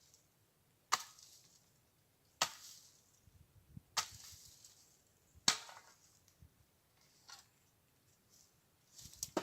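A series of sharp knocks or strikes, four strong ones about a second and a half apart, each with a brief ringing tail, followed by a weaker strike and a quick cluster of small clicks near the end.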